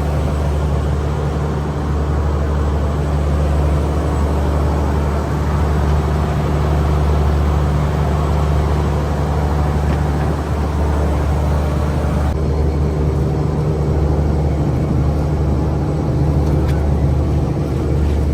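A fishing boat's engine running steadily with a deep, even drone. A little past the middle, some of the higher hiss drops away.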